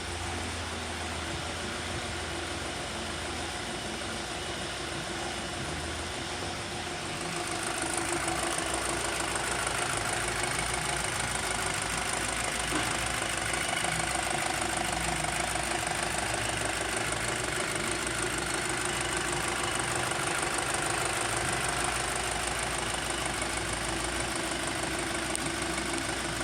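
VW Passat engine idling steadily. It grows louder and brighter about seven seconds in, then holds steady.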